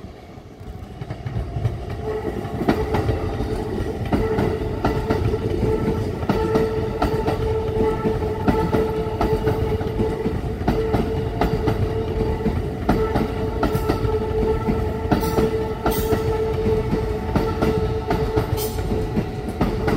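Keikyu 1000 series electric multiple unit passing close by, louder over the first couple of seconds as it arrives. Its wheels click over the rail joints, over a steady whine.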